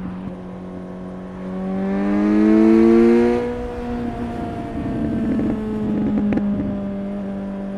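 Suzuki GSX-S 750's inline-four engine and exhaust on the move. The revs and loudness climb from about a second and a half in and peak near three seconds. Then the revs drop back and the engine runs steadily at a lower pitch.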